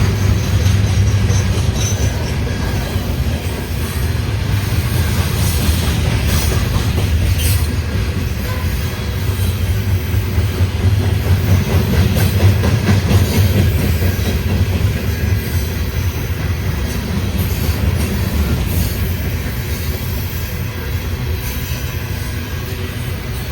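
Loaded coal train rolling past: a steady, heavy rumble of freight cars, with wheels clacking over the rail joints.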